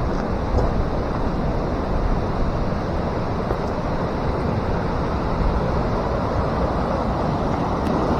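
Steady, gusting rumble of wind blowing across the microphone outdoors.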